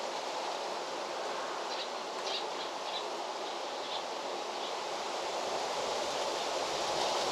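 Steady outdoor rushing ambience with a few short, high bird chirps about two to four and a half seconds in.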